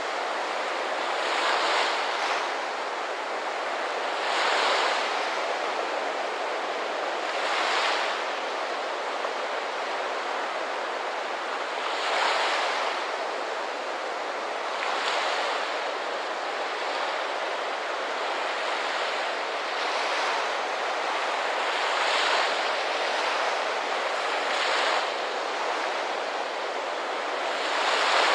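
Ocean surf: a steady rush of water with waves breaking and swelling every three seconds or so.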